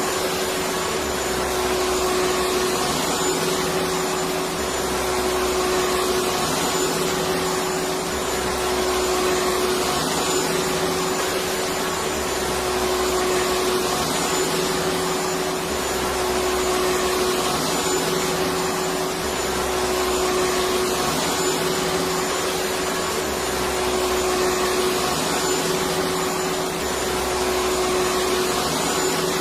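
Electric vacuum cleaner running continuously: a steady rush of air with a constant motor hum, and a faint low throb that comes round about every two seconds.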